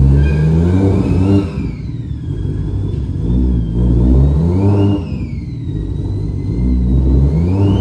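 Car engine being revved up and down about three times, roughly every three seconds, with a high whine that climbs and falls with each rev.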